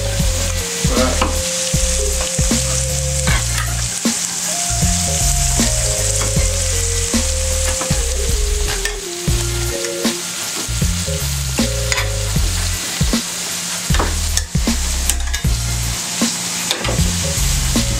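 Diced potatoes sizzling steadily in hot oil in a skillet, frying into home fries, with scattered light clicks. Low background-music notes run underneath.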